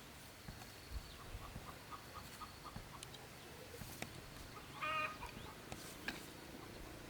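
Chicken giving one short, pitched call about five seconds in. Around it are faint, evenly repeated high chirps and a few soft clicks.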